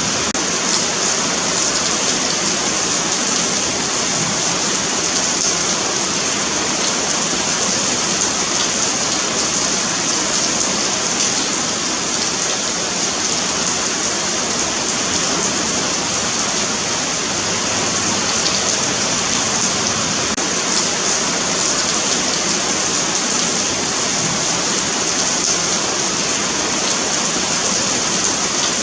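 Steady rain falling on pavement: a continuous hiss of drops spattering on hard concrete.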